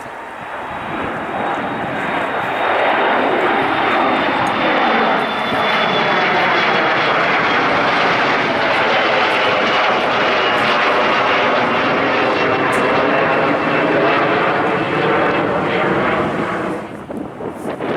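Jet airliner passing close by: the engine noise builds over the first few seconds, holds loud with a high whine that slowly falls in pitch, then drops away near the end.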